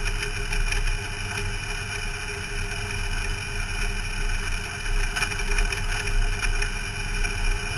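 Race car engine running steadily at low revs, heard from inside the car.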